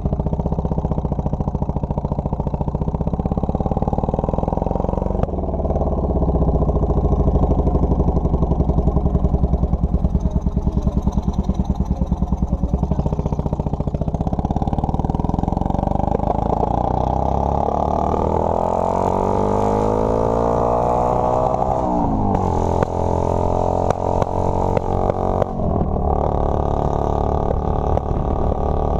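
Motorcycle engine running under way, its pitch climbing steadily for several seconds past the middle as it speeds up, then dropping suddenly and running on at a lower, steady pitch.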